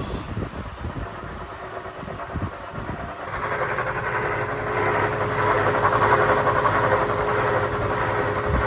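Washing machine drum turning with three watermelons inside: a few irregular low thuds at first, then from about three seconds in a steady whirring hum that gets louder as the drum speeds up towards a high-speed spin.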